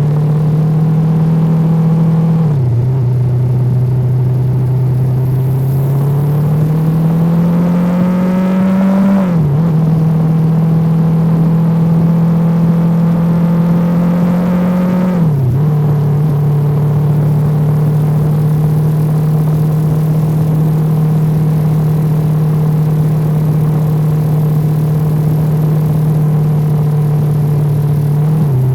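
Yamaha R25 motorcycle's parallel-twin engine under way. Its pitch climbs slowly as it pulls and drops sharply about two and a half seconds in, about nine seconds in and about fifteen seconds in as it shifts up a gear, then holds steady at cruising speed.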